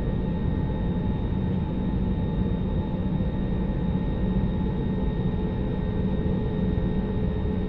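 Airliner cabin noise: the steady rumble of the jet engines and airflow, with a constant hum running under it.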